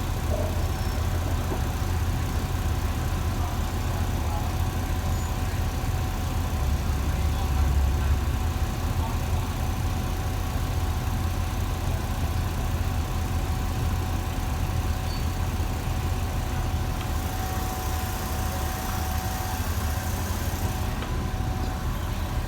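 Diesel train engine idling with a steady low hum and a faint constant whine, and a hiss of air for a few seconds near the end.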